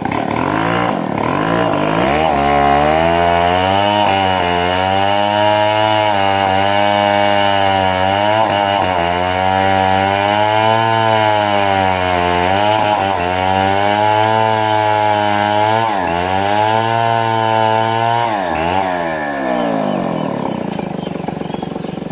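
Chainsaw running under load, cutting wood: its engine pitch keeps dipping and recovering as the chain bites into the cut, and it drops away about eighteen seconds in.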